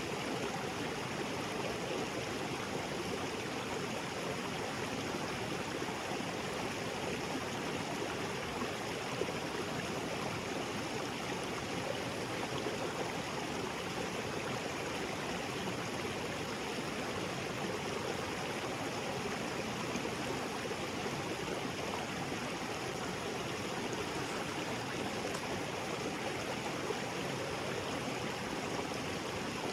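Small waterfall pouring into a jungle creek: a steady, even rush of falling and flowing water.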